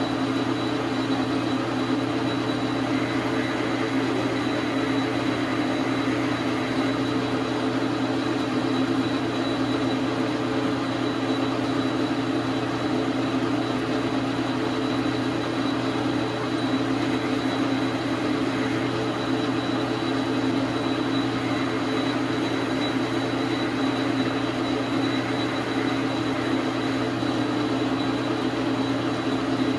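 Dar Sin 12 x 37 manual metal lathe running at a steady speed, its motor and gearing giving an even hum with a thin high whine.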